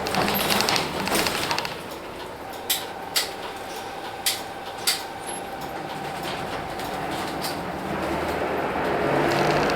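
Hino Blue Ribbon City bus's P11C 10.5-litre six-cylinder diesel, heard from the front of the bus while it runs. The sound is loud at first, then quieter with a steady whine and four sharp clicks, then the engine note builds again near the end.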